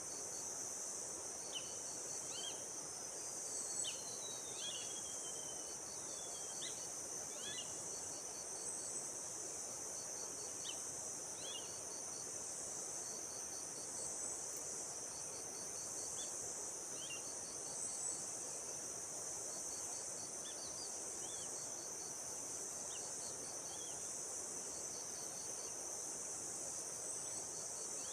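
Steady high-pitched insect chorus, with a row of quick, evenly repeated chirps just below it. Short bird chirps are scattered through it, including a couple of falling whistled notes a few seconds in.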